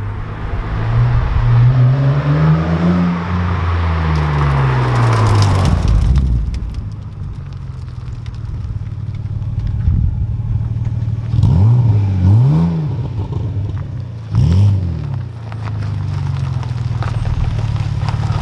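Renault Clio V6's V6 engine running through a freshly fitted Quicksilver exhaust. It revs up and slowly back down over the first six seconds, then settles to a low idle, broken by two quick throttle blips about two-thirds through and a third a couple of seconds later.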